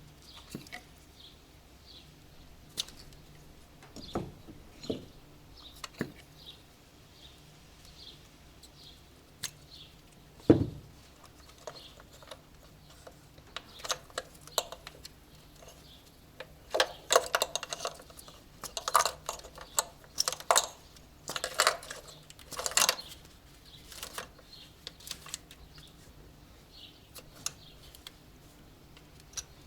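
Scattered clinks and knocks of hand tools and metal parts being handled, with one heavy knock about ten seconds in and a run of quick clattering from about seventeen to twenty-three seconds.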